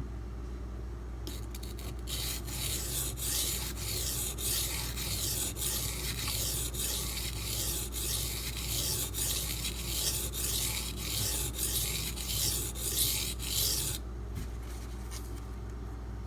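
D2 steel knife blade being stroked back and forth on a coarse 240-grit silicon carbide benchstone, a rapid, even rasping scrape that stops about 14 seconds in. This is the bevel being ground on very wear-resistant steel that has not yet reached the apex.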